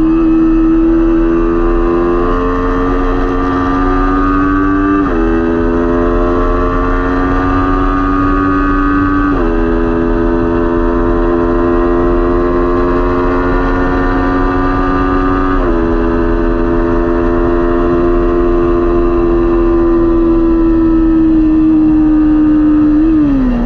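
Kawasaki Ninja 400 parallel-twin engine accelerating under racing load, its pitch climbing slowly through each gear. It shifts up about 5, 9 and 16 seconds in, the pitch dropping at each shift before climbing again. Near the end the pitch briefly dips and comes back up.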